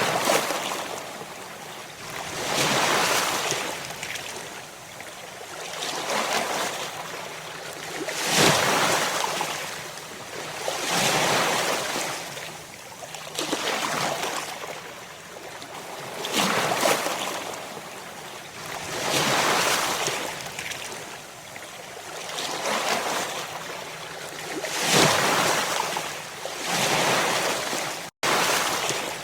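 Ocean waves breaking and washing on the shore, one surge of surf every two to three seconds. There is a split-second gap in the sound near the end.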